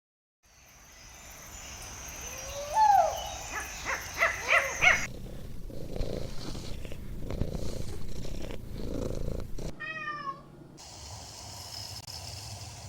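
Domestic cat purring in a low pulsing run, with a few short calls in the first few seconds.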